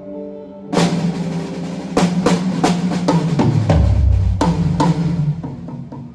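Drum kit played in a sound check: a loud crash about a second in, then a run of snare and kick drum hits over a sustained low note, dying away near the end.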